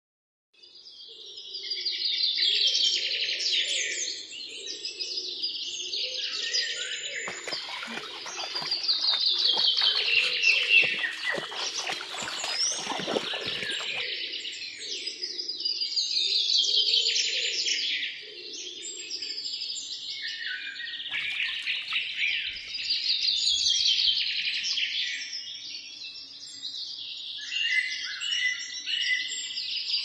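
Songbirds singing: repeated trilled phrases of rapid notes sliding down in pitch, returning every few seconds, with a stretch of crackling, rustling clicks in the middle.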